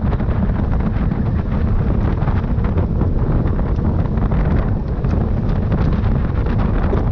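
Heavy wind buffeting on the microphone of a camera moving at speed, a steady low rumble with faint ticks scattered through it.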